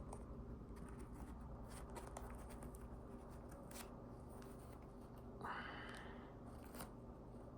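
Faint handling sounds of the glasses and their packaging: small scattered clicks, with a brief rustling scrape about five and a half seconds in.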